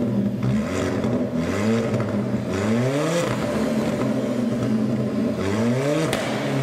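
Car engine accelerating hard, its pitch climbing again and again as it revs up and drops back between runs.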